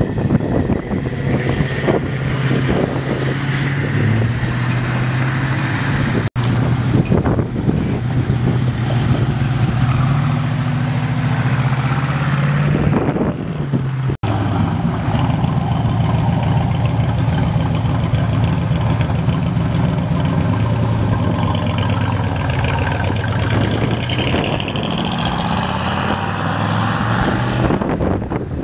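Car engines running loudly with pitch rising and falling as they rev, across three clips joined by abrupt cuts at about six and fourteen seconds in.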